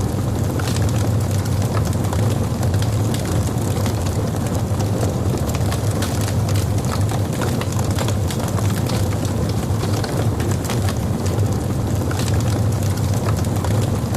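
Log fire burning in a fireplace: a steady low rumble of flames with frequent sharp crackles from the burning wood.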